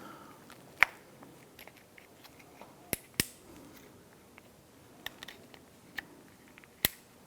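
Pliers working a spring-steel retainer clip onto a window crank handle: a few sharp, irregular metal clicks and snaps with faint handling sounds between them, the loudest near the end.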